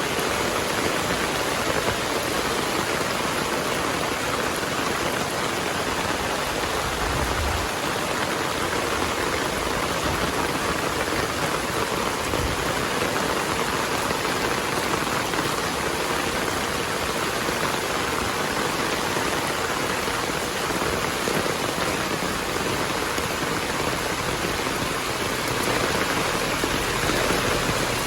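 Heavy rain falling steadily: a dense, even hiss of rain on surfaces that doesn't let up.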